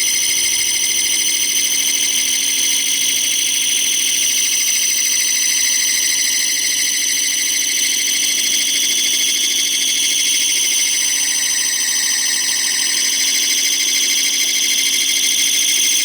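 Metal lathe cutting a retaining ring groove into a mower deck spindle, with a steady high-pitched whine that wavers slightly in pitch.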